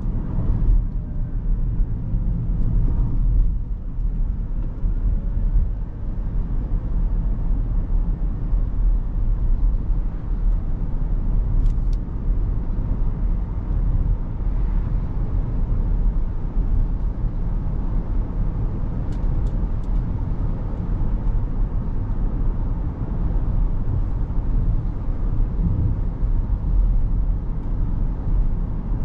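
Steady low road and tyre rumble from a 2023 Rivian R1S Quad Motor electric SUV on the move, with no engine note.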